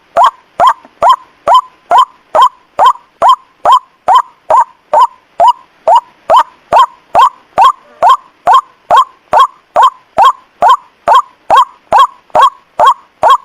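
White-breasted waterhen (ruak-ruak) call played as a trapping lure: a short downward-sliding note repeated in a steady, evenly spaced run of about two and a half calls a second, each starting with a sharp click.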